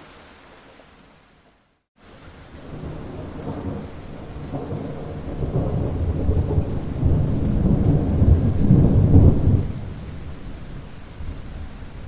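Rain falling, fading out to a moment of silence about two seconds in, then returning as a long rolling thunder rumble builds, is loudest a few seconds later, and dies away near the end.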